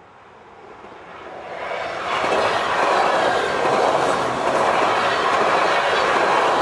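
NS Koploper electric multiple unit passing at speed through a level crossing. The rush and rumble of its wheels on the rails swells over the first two seconds and then stays loud, with a clickety-clack of the wheels over rail joints.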